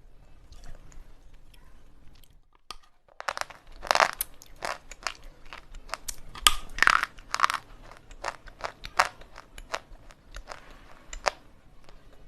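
Slate pencil pieces being bitten and crunched in the mouth, close to the microphone. After a quieter start, a run of sharp crunches begins about three seconds in, loudest in the middle, then thins to scattered crunches.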